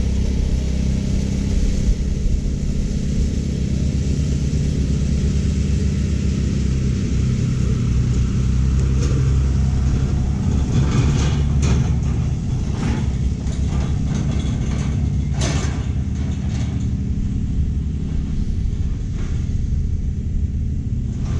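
California Trimmer engine-driven reel mower running steadily while cutting short Bermuda grass, with a low, even engine drone. A cluster of sharp clicks and rattles comes from about nine to sixteen seconds in.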